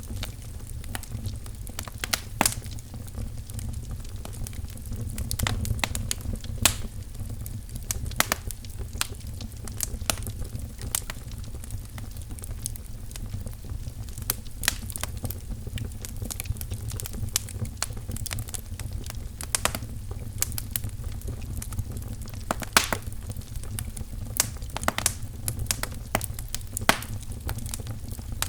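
Wood fire crackling in a fireplace: irregular sharp pops and snaps of burning firewood over a steady low rumble of the flames.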